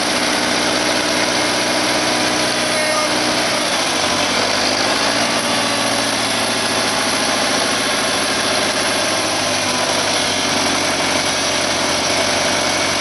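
John Deere tractor's carbureted engine running steadily just after a cold start following winter storage. Its engine note shifts about four seconds in.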